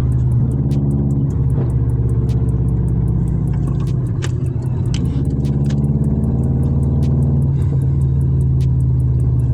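Straight-piped Subaru Impreza WRX's turbocharged flat-four running steadily under way with a loud, deep rumble, its pitch shifting a little a few times.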